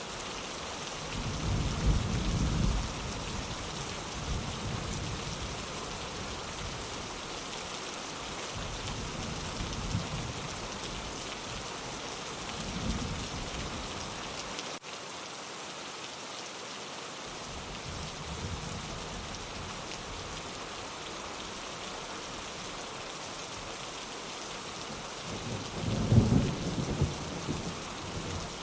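Steady rain falling on a window, with low rolls of thunder: a strong one about two seconds in, fainter ones in the middle, and the loudest near the end.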